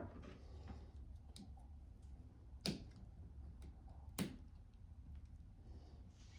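Three sharp clicks, the second and third about a second and a half apart, with faint lighter ticks between them, over a low steady hum.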